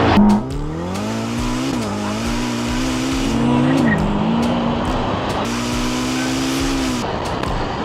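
Ferrari engine accelerating hard through the gears: its note climbs, drops at an upshift about two seconds in, climbs again and drops at a second shift about four seconds in, then holds a steady pitch.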